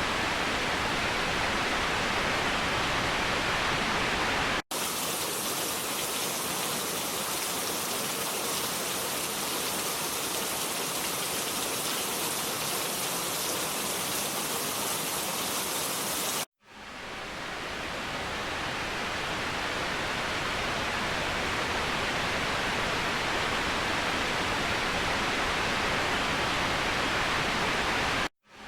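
Waterfall rushing, a steady hiss of falling water. It cuts out abruptly about 5 seconds in and again at about 16 seconds and near the end, each time starting again with a different tone: brighter and thinner in the middle stretch, fuller afterwards.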